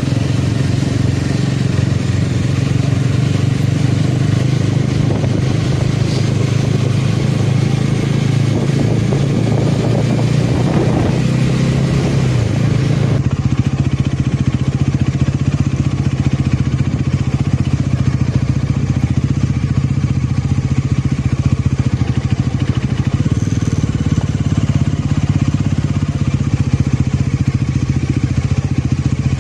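Motorcycle engine running steadily under way, a constant low drone with road and wind noise; the sound shifts abruptly about thirteen seconds in.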